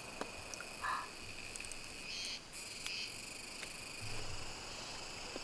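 Steady chorus of insects chirping, a layered high-pitched trill that keeps on without a break, with a few faint short clicks over it.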